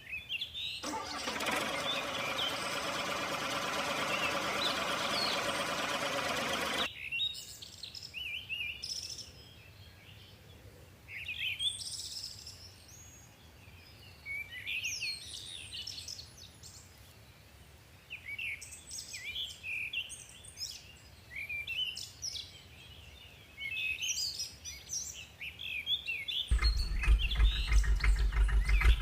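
Small birds chirping on and off. Early on, a steady dense buzzing noise lasts about six seconds and stops suddenly. A few seconds before the end, a loud low rhythmic engine chugging starts and keeps running.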